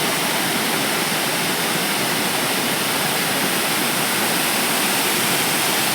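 Waterfall: a steady, unbroken rush of falling water from Fukiware Falls.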